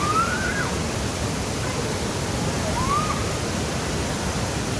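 Waterfall's falling water rushing steadily, an even, unbroken wash of noise.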